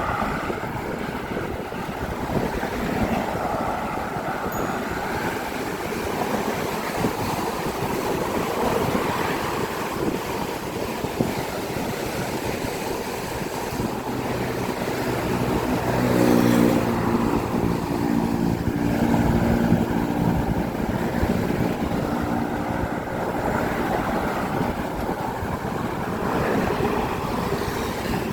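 Steady road traffic: cars' tyres and engines passing in a continuous rushing noise that swells and eases, with one engine's hum rising and fading about halfway through.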